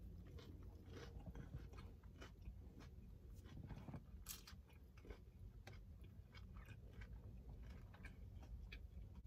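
A person chewing a mouthful of juicy double-patty turkey burger: faint, irregular soft clicks and smacks of the mouth.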